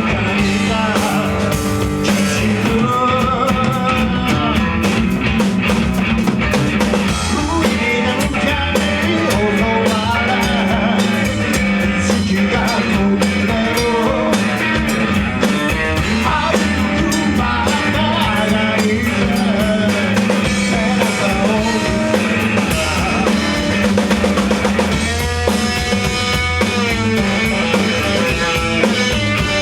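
Rock band playing a song: drum kit, guitar and singing.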